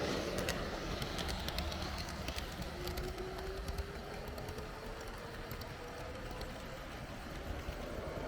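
H0-scale model train running along the track, with the running rumble and scattered clicks of the wheels over the rails. From about three seconds in, a thin whine rises slowly in pitch.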